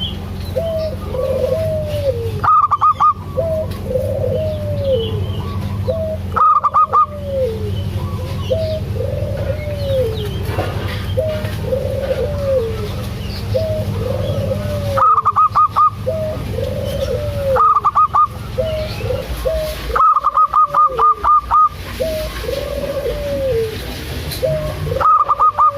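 Zebra dove (perkutut) cooing: a steady series of short, arched, rising-then-falling coo notes, roughly one every second and a half. Several times a louder, higher call of rapid clipped pulses breaks in, over a steady low hum.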